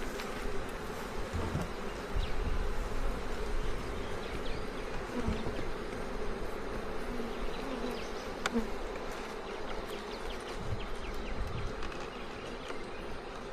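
Honeybees buzzing steadily in a continuous drone around the opened hive, with a few faint clicks and low knocks.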